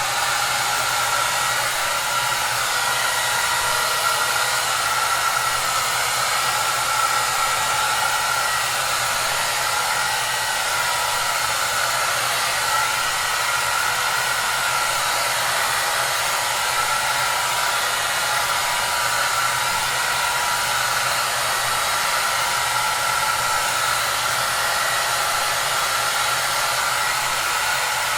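Hair dryer running steadily: an even airy rush weighted toward the upper range, with a faint steady whine in it and no change in speed.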